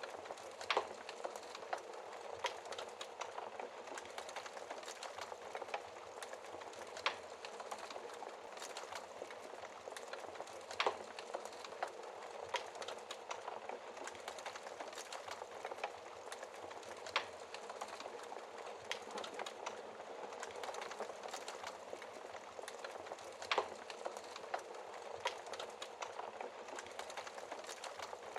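Wood fire burning in a fireplace: a steady soft hiss with irregular crackles and sharp pops.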